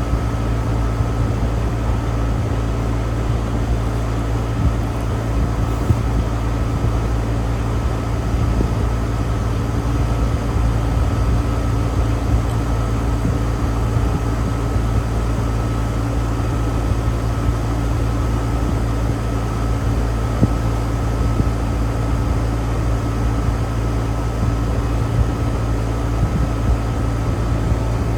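Old straight-cool central air-conditioner condenser unit running steadily, its compressor and fan making a constant hum with a steady higher tone above it.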